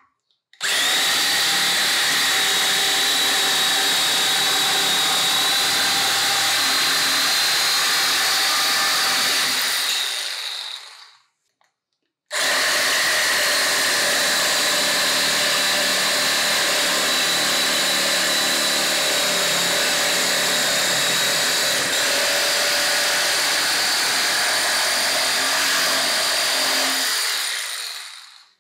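Makita 4390D cordless reciprocating saw running at a steady speed with a constant motor whine for about ten seconds, then winding down to a stop. It starts again about a second later, runs steadily for about fifteen seconds and winds down again.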